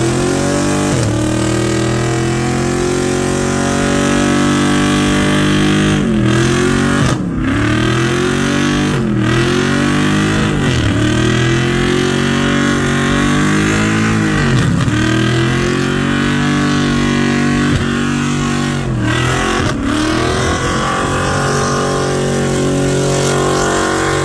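Car engine held at high revs during a burnout, its pitch dropping sharply and climbing back up several times, with a steady hiss over the engine.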